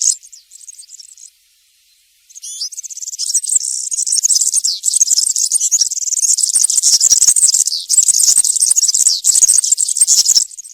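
European serin singing its fast, very high-pitched song. A phrase ends at the start, a pause of about two seconds follows, then one long unbroken phrase runs for about eight seconds.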